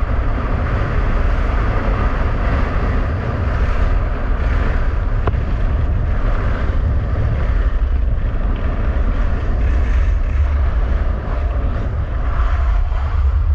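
Heavy wind buffeting the microphone during a fast ski-winging run, over a steady rush and scrape of skis running across rough ice.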